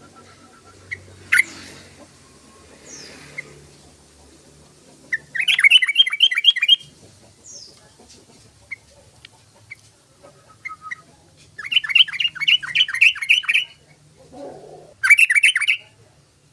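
Yellow-vented bulbul (trucukan) calling: three loud bursts of rapid, bubbling repeated notes, about five a second, with short single chirps between them.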